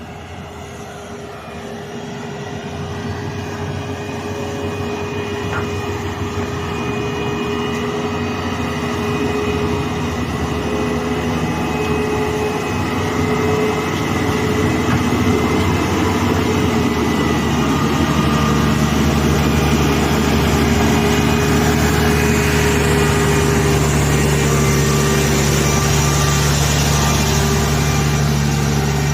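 Hino Victor truck's diesel engine running at steady revs as the truck approaches, growing louder over about twenty seconds and then staying loud.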